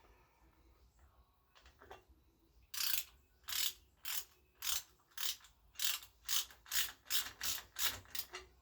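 Hand ratchet being worked back and forth, clicking in about eleven even strokes roughly twice a second after a few faint handling knocks, driving a bolt into the powder-coated frame of a Honda ST50.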